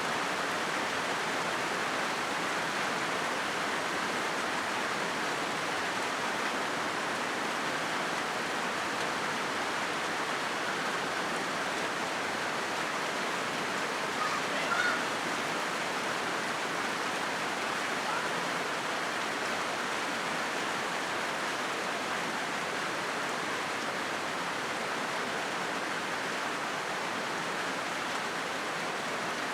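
Steady rain falling on a corrugated zinc roof, an even hiss that keeps up throughout. About halfway through there is one brief, slightly louder tap.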